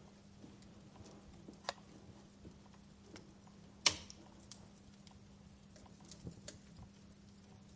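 Wood fire crackling: scattered sharp pops and snaps, the loudest about four seconds in, over a faint steady hum.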